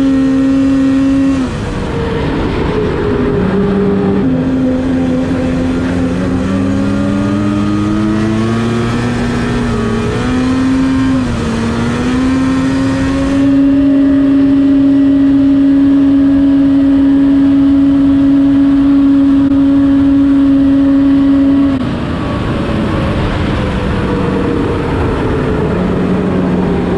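Snowmobile engine running under way, its pitch rising and falling with the throttle over the first half. It then holds a steady high note for several seconds and drops back to a lower note near the end as the throttle eases off.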